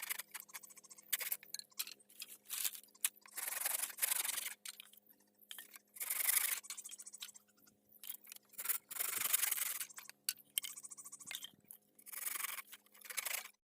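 A hand tool rasping on wood in repeated irregular strokes, several of them drawn out to about a second, as in sawing or scraping timber for a pen repair.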